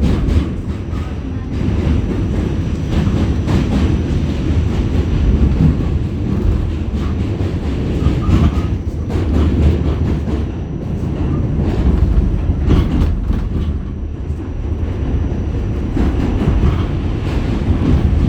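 New York City subway train running across the Manhattan Bridge: a loud, steady low rumble of wheels on the rails with scattered clicks and clatter.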